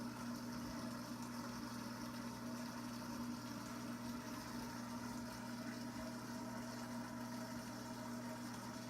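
Steady low hum of an aquarium pump with a light watery hiss, unchanging throughout.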